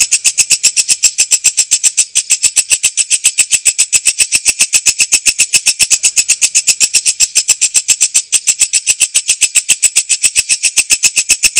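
Walang kecek katydid stridulating: a fast, even train of sharp, high-pitched ticks, about eight a second, held without a break.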